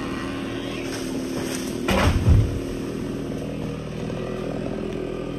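Chainsaw engine running steadily, with a brief louder surge about two seconds in.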